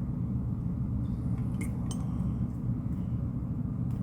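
A few light clinks of dishware, a tea mug being handled, about one and a half to two seconds in and once more near the end, over a steady low hum.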